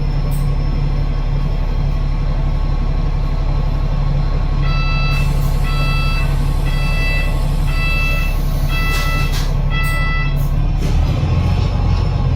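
Double-decker bus's Cummins ISL8.9 diesel engine running steadily, heard from inside the bus. From about five seconds in, six electronic beeps about a second apart sound over it, and near the end the engine's low rumble deepens and grows louder.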